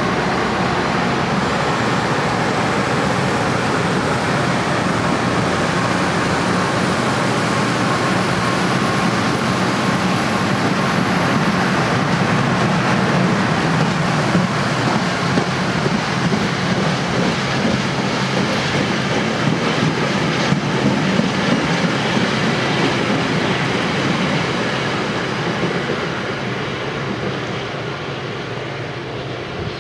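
A train passing on the tracks: steady wheel-and-rail noise with a run of sharp clicks in the middle, fading away over the last few seconds.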